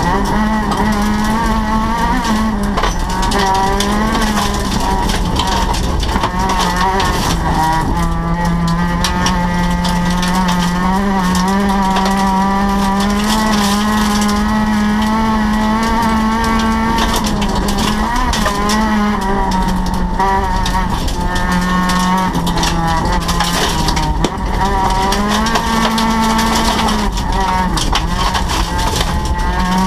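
Rally car's engine heard from inside the cabin, running hard with a steady drone whose pitch holds for a few seconds at a time and then steps down or back up with gear changes.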